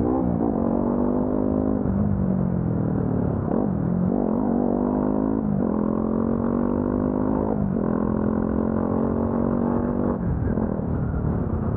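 Motorcycle engine running under way, heard from the rider's seat over low wind rumble. Its note holds steady, then dips and climbs again several times, about every two seconds, as the revs fall and rise.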